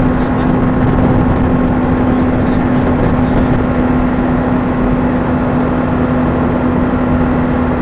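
Honda CBR600RR's inline-four engine running at a steady, high pitch while the bike cruises at speed, with heavy wind rush over it.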